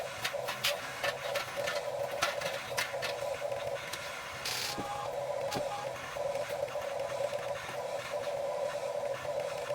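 Huina 1550 RC excavator's small electric motors and gearboxes whining steadily, with rapid irregular clicking over the first three seconds and a short hiss about four and a half seconds in.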